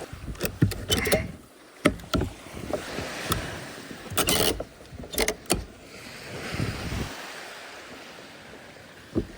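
Irregular knocks and clatters, loudest in the first two seconds, with a short rushing burst about four seconds in, over steady sea and wind noise around a small boat.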